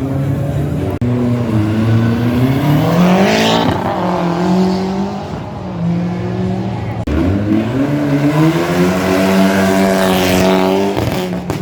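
Rally car engine revving hard, its pitch climbing and falling several times as it accelerates and lets off.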